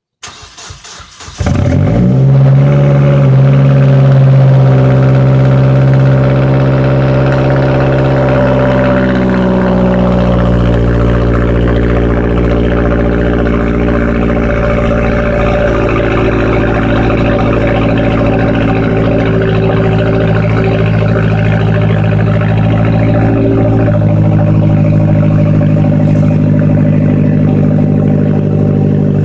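Mazdaspeed6's turbocharged 2.3-litre four-cylinder cold-starting through a muffler-deleted, secondary-cat-deleted exhaust: the starter cranks for about a second, the engine catches, and it settles into a loud, raspy high idle. The idle steps down twice as the cold-start fast idle eases off.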